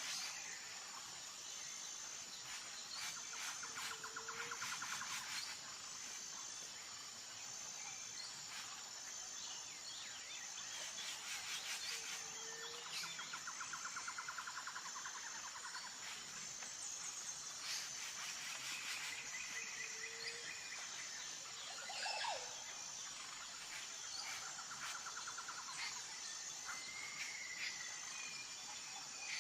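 Nature ambience of birds chirping and trilling over a steady high insect drone, with a short low call coming back about every eight seconds. Scattered light clicks and taps sound through it.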